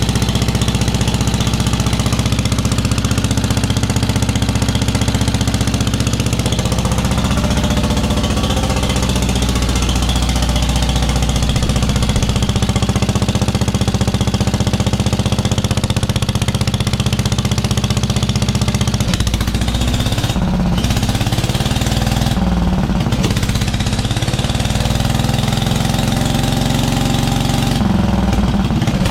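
1973 Wheel Horse tractor's 10 hp Kohler single-cylinder engine running steadily through a homemade galvanized-pipe exhaust stack. From about two-thirds of the way through, its note turns uneven and wavers.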